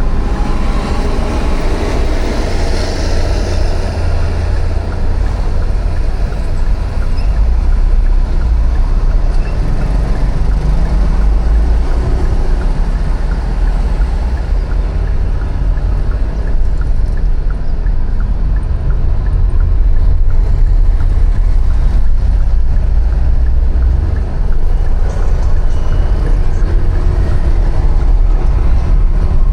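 City street traffic heard from a moving bicycle: a steady, loud low rumble of passing vehicles and road noise, with no single event standing out.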